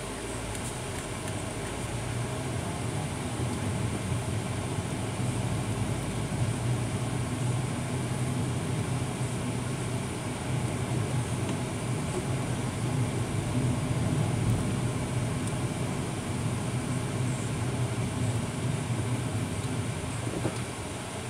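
Vehicle engine running and road noise heard from inside the vehicle while driving through city streets, a steady low hum that grows a little louder through the middle.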